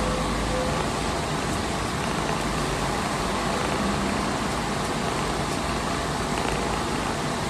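Steady, even rushing noise with no clear tones or sudden sounds.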